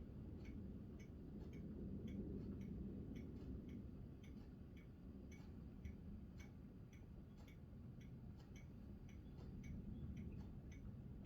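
Faint ticking, a few ticks a second, over a low steady rumble.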